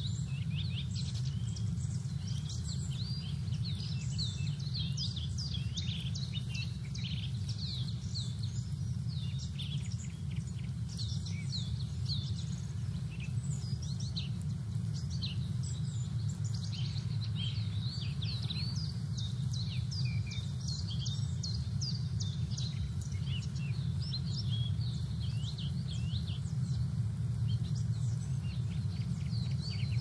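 Many small birds chirping and twittering throughout, with dense overlapping short calls, over a steady low rumble.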